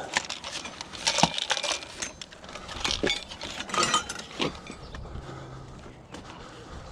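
Pieces of scrap metal being handled: irregular metallic clinks and knocks, busiest in the first half and dying down toward the end.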